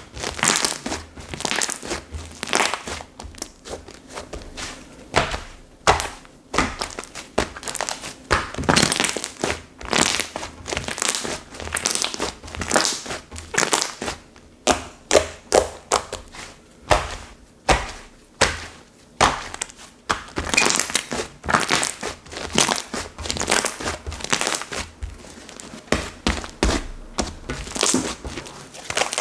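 Slime being squeezed, pressed and stretched by hand, giving a string of sharp clicks and pops in clusters about once a second.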